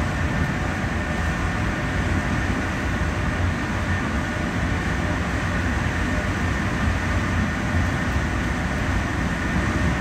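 Class 465 Networker electric multiple unit running through a tunnel, heard from inside the carriage: a steady loud rumble of wheels and running gear, made louder by the tunnel walls, with a faint steady high tone above it.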